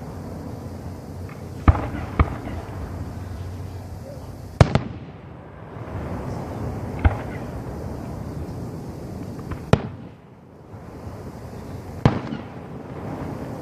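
Aerial fireworks shells bursting in a professional 1.3G display: about six sharp booms at irregular intervals of one to three seconds, two of them close together near the start, over a steady background hiss and rumble.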